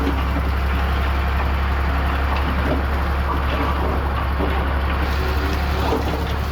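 Heavy construction machine's diesel engine running steadily at a constant low drone, with scattered light clanks and rattles over it.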